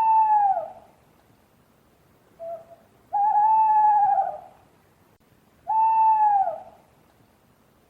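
Owl hooting: three long hoots spaced a few seconds apart, with a short note just before the second.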